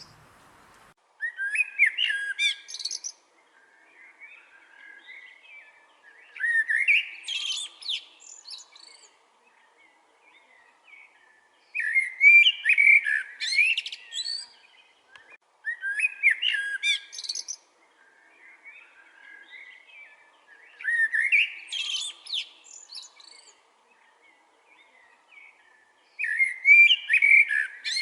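A songbird singing, repeating a fast, warbling song phrase of about two seconds six times, roughly every four to five seconds, with softer chirping between the phrases.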